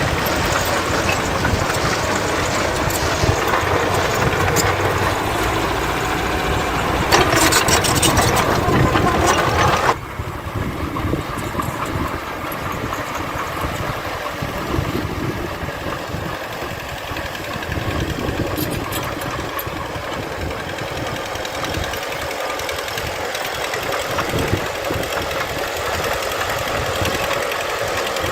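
Diesel engines of heavy earthmoving machinery running at work. A louder, noisier stretch between about seven and ten seconds in breaks off abruptly, and steady engine running follows.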